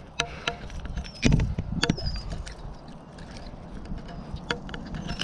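Gusty wind rumbling on the microphone, with scattered clicks and knocks of handling and a louder thump a little over a second in. A short high chirp, likely a bird, sounds once about two seconds in.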